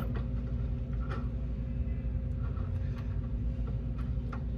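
Steady low hum of a running machine, with a faint click about a second in.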